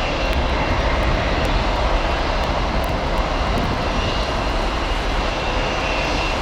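Jet airliner departing, its engines at takeoff power making a steady rumble with a faint high whine. Wind and rain noise is mixed in.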